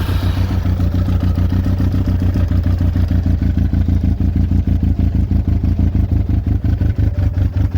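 Yamaha YZF Thunderace's inline-four engine running steadily at idle on freshly rebuilt carburettors, then cutting off suddenly near the end.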